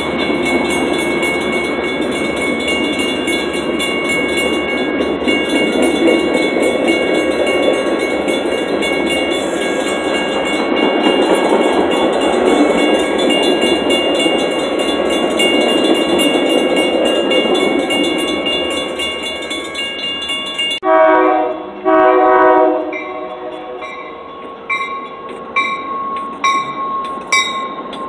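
Metra commuter train of bilevel cars passing over a grade crossing: a steady rumble of wheels on rail, with high steady ringing from the crossing signals' bells. About three-quarters through the sound cuts abruptly to two short blasts of a train horn, then quieter clicking of wheels on rail joints.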